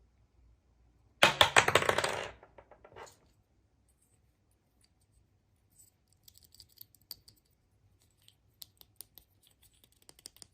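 Small hard plastic pieces rattling and clicking as they are handled: a loud, quick clatter about a second in, then scattered light clicks and taps through the rest.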